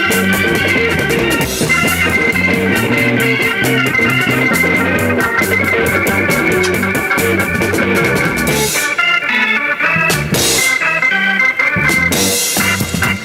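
Organ-led late-1960s rock recording with drums and cymbals keeping a steady beat. About nine seconds in, the bass and drums drop out for a few seconds, leaving the organ chords nearly alone before the band comes back in.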